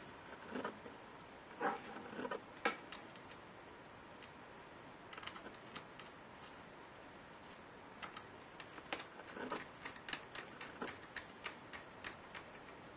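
Scattered small clicks and taps of hands and tools working on a laptop's plastic and metal parts, in irregular clusters that are densest near the end.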